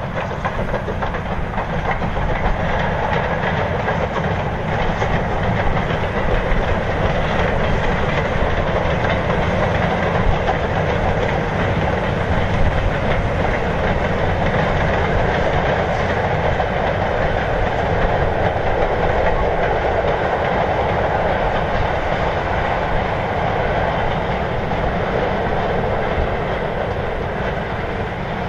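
Steam-hauled goods train of mineral wagons with a brake van running past, a steady rumble of wagon wheels on the rails.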